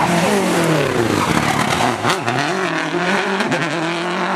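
Rally car engine revving hard. The pitch sinks over the first two seconds, climbs sharply just after, then dips and rises again near the end.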